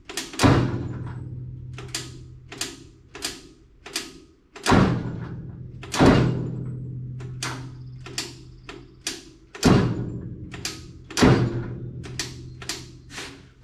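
Old tractor's electric starter circuit clicking over and over, with five heavy thuds as the starter engages, each followed by a short steady hum before it drops out. The starter cuts out as soon as it takes load, the sign of a poor or dirty connection in the starting circuit.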